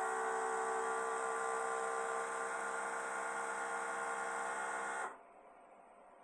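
WeVac chamber vacuum sealer's pump running with a steady hum. It cuts off suddenly about five seconds in, leaving only a faint sound.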